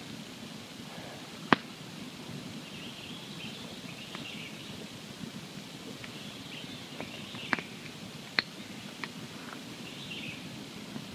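Wood campfire burning with a steady low hiss and scattered sharp crackles and pops. The loudest pop comes about one and a half seconds in, and a few more follow in the second half.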